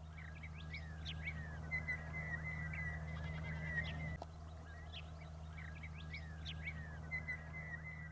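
Small birds calling: bouts of chirps and quick rising notes over a trilling line, the same phrase pattern coming twice, about a second in and again about five seconds in. A steady low hum runs underneath.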